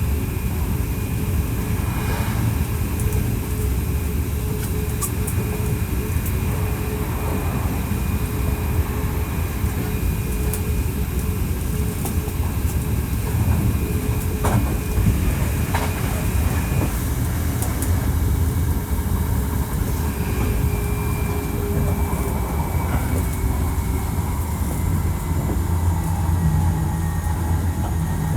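Hankyu 1300 series electric train with a Toyo IGBT VVVF inverter running at speed, heard from inside the car: a steady low rumble of wheels on rail under steady motor and inverter tones. About 17 seconds in the higher tone drops away and then slowly falls in pitch, with occasional short clicks over the rail joints.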